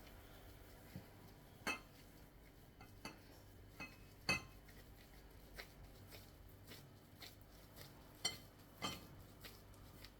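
Kitchen utensils and dishes clinking: a dozen or so scattered light knocks and clinks, the loudest about four seconds in.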